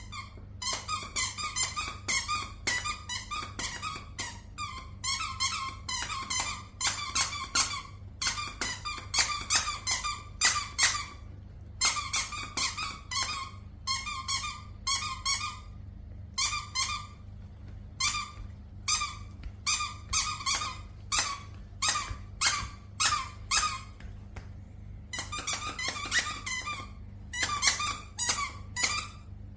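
A dog's squeaky toy squeaked over and over as a chihuahua bites it, in quick runs of squeaks with short pauses between them. A steady low hum sits underneath.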